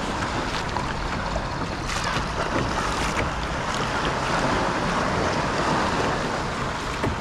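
Sea water washing against a kayak's hull, with wind rushing over the microphone: a steady, even rushing noise with a few faint ticks.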